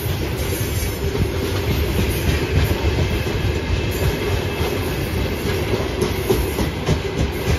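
Freight train's open gondola wagons rolling past: steady rumble of steel wheels on the rails with repeated clickety-clack as the wheelsets cross rail joints.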